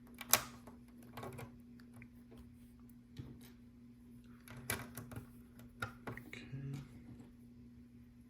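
Small LEGO plastic pieces clicking and tapping as they are handled and pressed onto the mosaic: a handful of sharp separate clicks, the loudest just after the start, others around one, three, five and six seconds in. A faint steady hum lies underneath.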